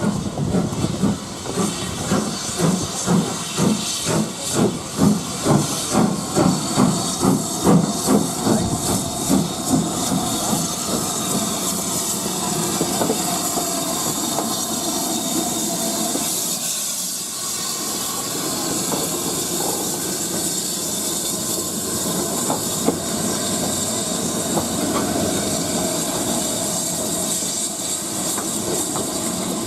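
Steam locomotive working a train, its exhaust beating regularly about one and a half times a second. About ten seconds in, the beats give way to a steady hiss of steam and the rolling of the train.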